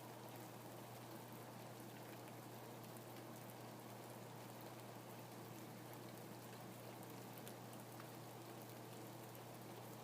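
Light rain falling steadily, with scattered individual drops ticking, over a steady low hum.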